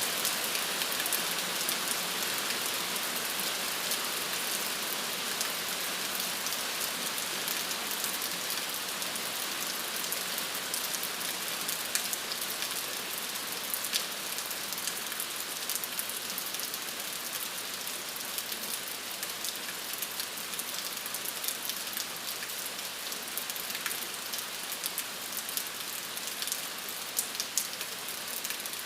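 Steady rain falling on a surface, a dense even hiss with scattered individual drops ticking sharply.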